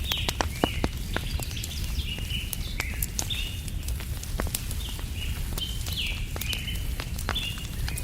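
Wood fire crackling with frequent sharp pops and snaps over a steady low rumble, while small birds chirp in quick, repeated short notes throughout.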